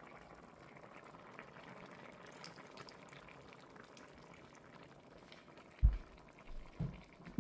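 Pot of chicken in gravy simmering, a faint steady bubbling, with a dull low thump near the end and a softer one about a second later.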